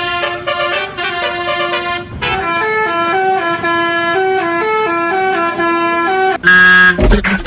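Basuri telolet bus horn playing a quick melody of short stepped notes, followed about six and a half seconds in by one louder, lower horn blast of about half a second.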